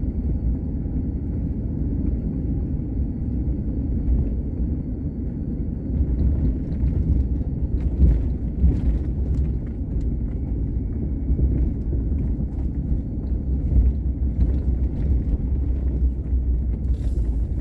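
Steady low rumble of a car being driven, heard from inside the cabin: engine and tyre noise with no change in pace.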